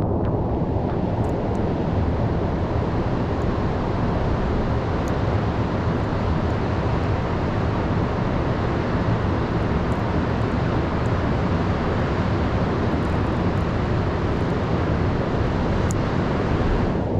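Heavy storm surf and wind, a steady dense rush of noise heaviest in the low end, with no single wave crash standing out.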